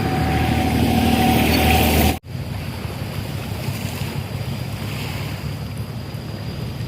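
Wind buffeting the microphone over a steady wash of sea noise. A low engine hum runs through the first two seconds and cuts off suddenly.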